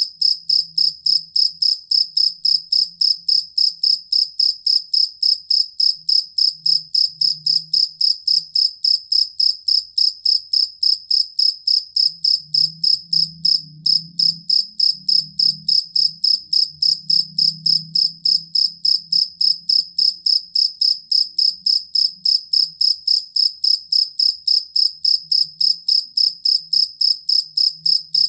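Field cricket (jangkrik kalung) calling: a high, shrill chirp repeated evenly at about four pulses a second, with one brief break about halfway through.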